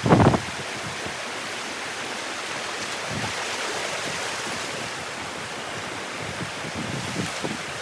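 Steady rush of flowing water mixed with wind buffeting the microphone, with a short loud thump right at the start and a few softer ones later.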